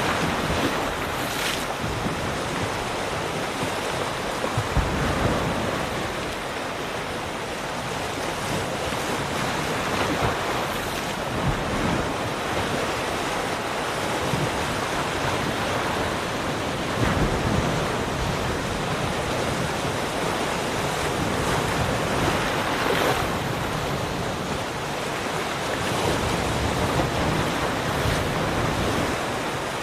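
Ocean waves breaking and washing on a shore, a continuous surf with gentle swells in loudness, with wind buffeting the microphone.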